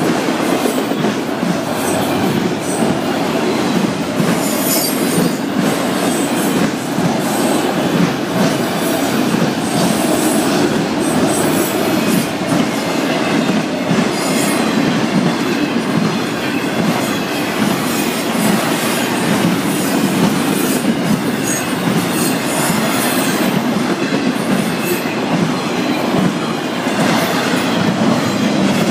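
Florida East Coast Railway freight train's cars rolling past at speed: a steady, loud rumble of steel wheels on rail, with clicks from the wheels running over the rail joints.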